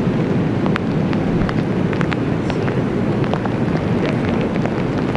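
Strong wind and rain: a steady low rumble of wind with scattered sharp ticks of raindrops striking.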